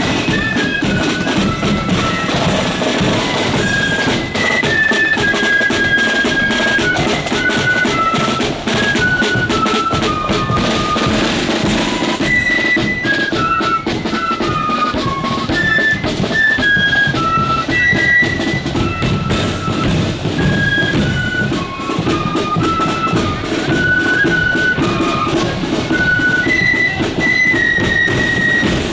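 Marching flute band playing a tune: a melody on flutes over drums with a bass drum beating steadily.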